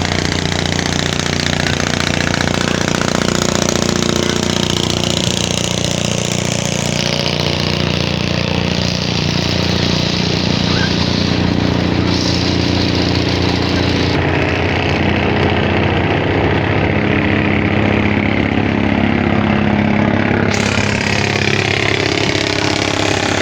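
Passenger launch's engine running at a steady, unchanging pitch, a continuous low drone.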